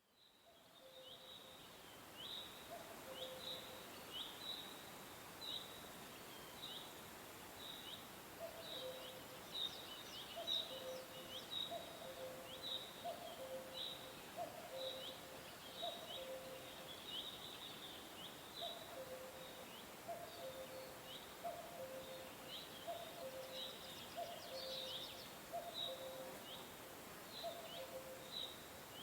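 Songbirds chirping: short, high, falling chirps repeating about once or twice a second, with a lower two-note call repeating alongside, over a steady hiss. The sound fades in from silence at the very start.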